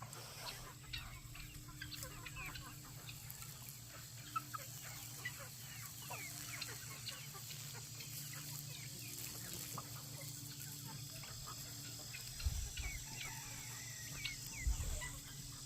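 Chickens clucking and calling, with many short high chirps scattered throughout over a steady low hum.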